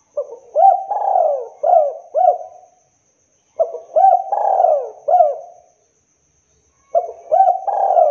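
Spotted dove (tekukur) cooing: three phrases of several falling coos each, about three seconds apart, the last one cut off at the end.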